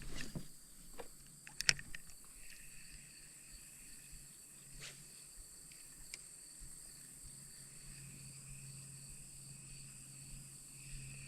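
Insects calling steadily in a continuous high drone, with a few sharp knocks near the start, the loudest about a second and a half in, and another near five seconds.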